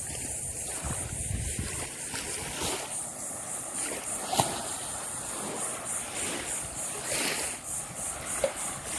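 Small waves washing on the shore with wind buffeting the microphone, strongest in the first couple of seconds. A steady, high, pulsing buzz of cicadas runs underneath.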